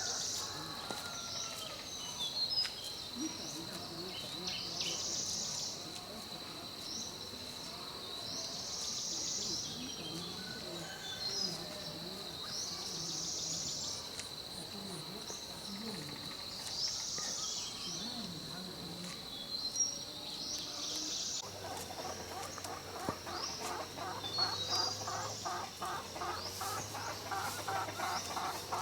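Outdoor country ambience: a steady high insect drone with bird chirps recurring every few seconds. About two-thirds of the way through, this cuts abruptly to a rapid, pulsing run of lower calls over a faint hum.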